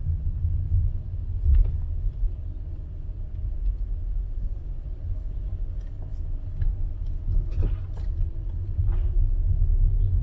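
Low, uneven rumble of city street ambience, with a few faint clicks.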